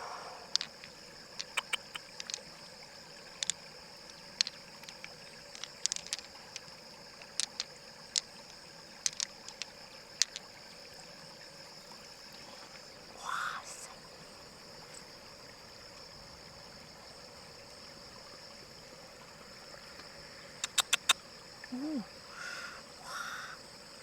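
Scattered short, sharp clicks and taps, many in the first ten seconds and a quick run again near the end, over a steady high-pitched hum.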